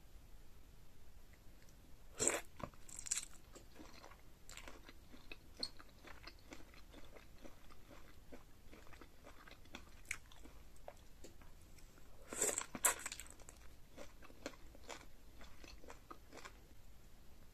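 Close-miked eating of sauced shrimp from a seafood boil. Two loud bites come a couple of seconds in and about twelve seconds in, with wet chewing clicks in between.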